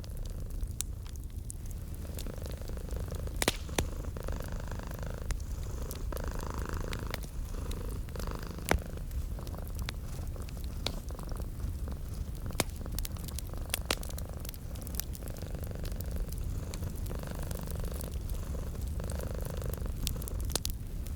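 A cat purring steadily in a low rumble that swells and eases with each breath. A wood fire crackles over it, with scattered sharp pops.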